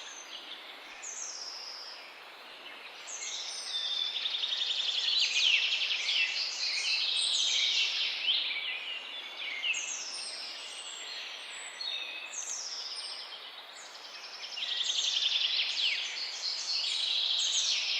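Several songbirds singing over one another in a dense chorus of chirps, quick trills and sweeping whistles. It gets busier and louder about four seconds in and again near the end.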